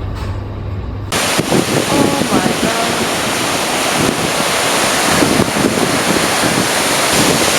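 Ocean surf and wind buffeting the microphone, a loud steady rush that starts suddenly about a second in, with faint voices underneath.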